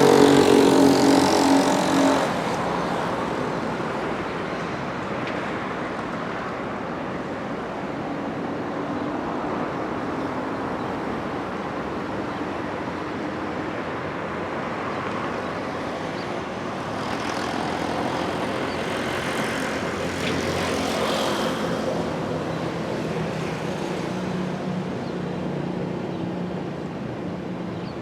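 A motor vehicle on the move: steady road and wind noise, with the engine louder for the first two seconds. The noise swells for a few seconds about two-thirds of the way through.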